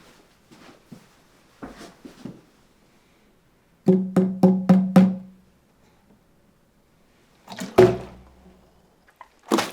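Plastic bottles thudding down on a surface after flips, used as pitched percussion: a quick run of five hollow thuds, all on the same pitch, lasting about a second a few seconds in, with light clicks before it and one heavier thud near the end.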